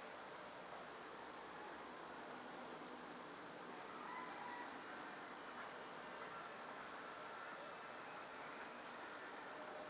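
Rainforest insect chorus: a steady high-pitched buzz over a soft even background hiss, with short high chirps scattered through.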